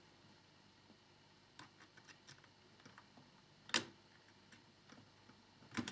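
Small plastic model parts and tools being handled: a few faint scattered clicks and taps, with one louder click a little under four seconds in.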